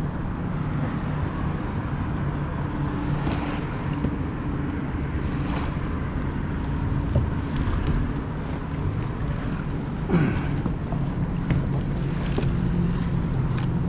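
Wind buffeting the microphone and water splashing around a kayak on fast, choppy tidal water, with a steady low hum underneath and a few short sharp knocks.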